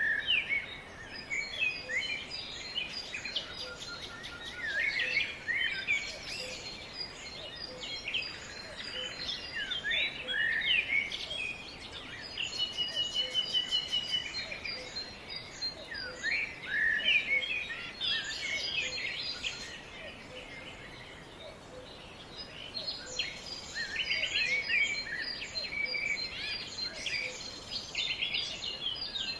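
Several birds singing and calling at once: many overlapping chirps, rapid trills and short whistles, over a steady background hiss, easing off for a few seconds past the middle.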